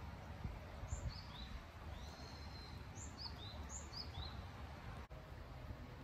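A small bird calling: short, high notes falling in pitch in three quick runs, with one longer note between them, over a steady low background rumble.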